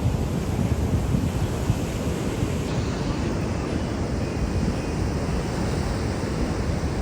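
Sea surf washing onto a beach, with wind rumbling over the microphone: a steady, even rush heaviest in the low end.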